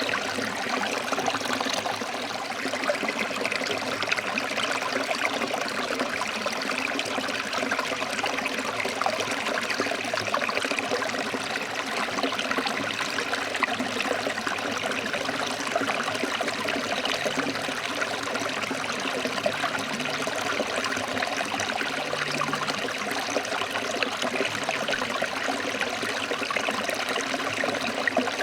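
Forest stream water flowing over rocks: a steady splashing rush.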